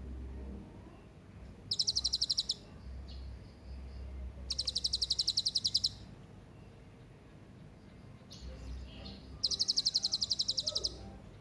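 Hanging parrot (serindit) calling: three bursts of rapid, evenly repeated high-pitched notes, each lasting about one to one and a half seconds, with pauses of a few seconds between.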